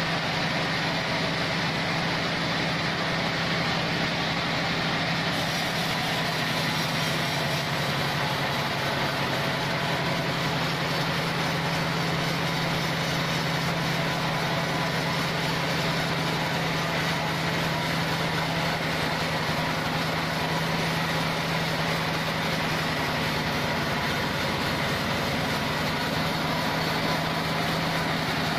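Log band sawmill running steadily: an unbroken machine sound with a constant low hum under a dense, even whirr.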